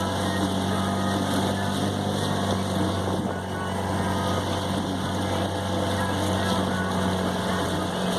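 A small motor running steadily with a constant low hum, over a haze of water and wind noise.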